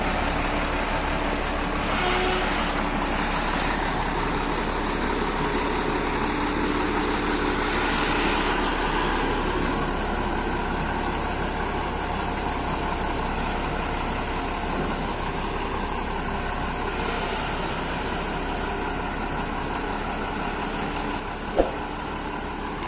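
Heavy truck engine running steadily under road and traffic noise, with a single sharp click near the end.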